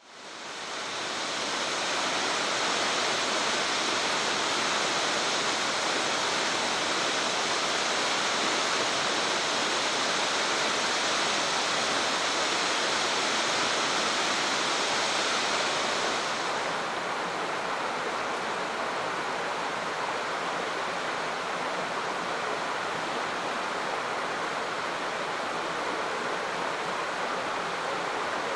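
Steady rush of fast-flowing water, fading in at the start. About two thirds of the way through it turns duller and a little quieter as the hiss loses its brightness, as if a different stretch of water is heard.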